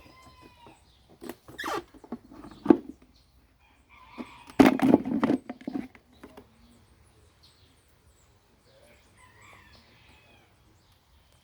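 A few sharp knocks and a louder stretch of clatter about halfway through, with birds calling faintly, chirps near the start and again near the end.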